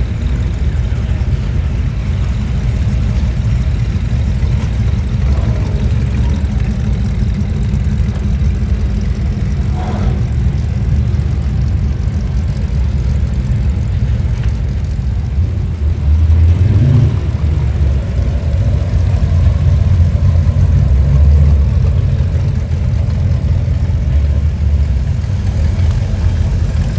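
Low, steady rumble of hot rod car engines, growing louder about sixteen seconds in, with a brief rise in pitch around the middle.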